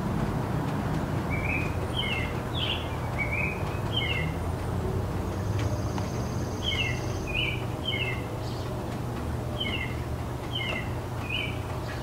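A small garden bird chirping in three short bouts of several quick, downward-sliding notes, over a steady low rumble of distant city traffic.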